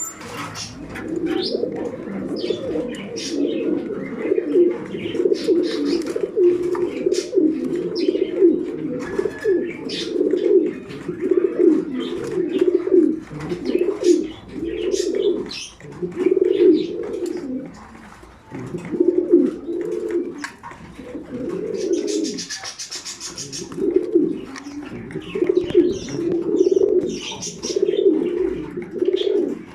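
Many domestic racing pigeons cooing over one another, a near-continuous low cooing with short high chirps and clicks mixed in. About two-thirds of the way through, the cooing briefly dies down and a short high hissing buzz is heard.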